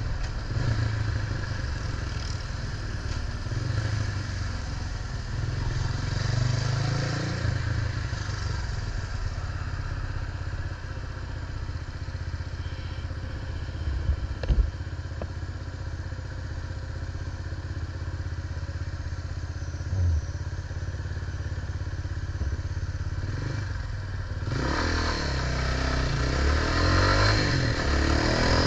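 Steady riding noise from a bike in motion, with wind on the microphone and a knock about halfway through. About 24 seconds in, a louder vehicle sound comes up, its engine pitch climbing near the end.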